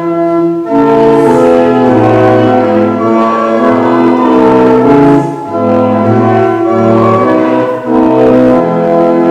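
Church organ playing sustained chords that change in steps, with brief breaks between phrases.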